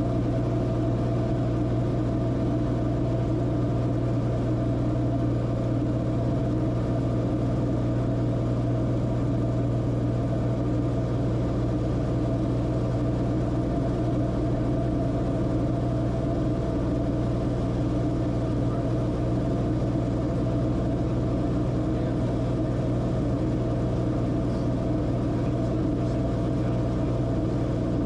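Cessna Corvalis TTX's turbocharged six-cylinder engine and propeller heard from inside the cabin, a steady drone with a strong low hum that holds unchanged throughout.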